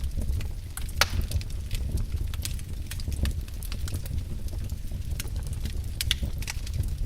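Wood fire in a fireplace crackling: irregular sharp pops and snaps over a steady low rumble, with one louder pop about a second in.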